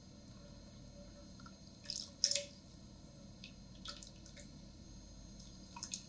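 A handful of light, sharp clicks and drip-like ticks from kitchen work, the loudest about two seconds in, over a quiet steady background.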